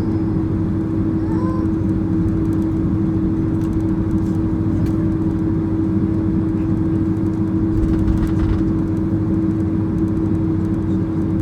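Cabin noise inside a Boeing 767-300ER airliner on the ground after landing: a steady low rumble with a constant droning hum, swelling briefly about eight seconds in.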